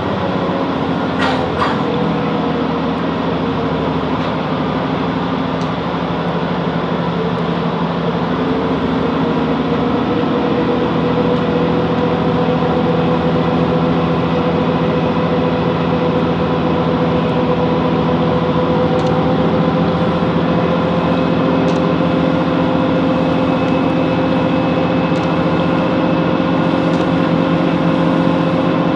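Class 165 Networker Turbo diesel multiple unit's underfloor diesel engine running, heard from inside the carriage. There is a brief falling tone at the start and a couple of sharp clicks about a second and a half in. From about eight to ten seconds in the pitch and loudness rise slightly, then hold steady.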